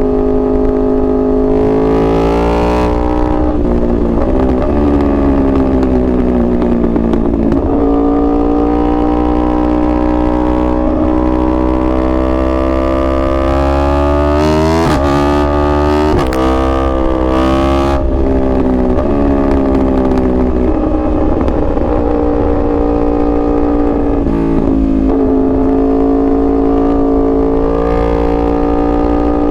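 2021 Yamaha R1's crossplane inline-four engine running hard while being ridden, its pitch climbing and falling repeatedly as the rider works the throttle and gears, with a cluster of sharp changes in the middle.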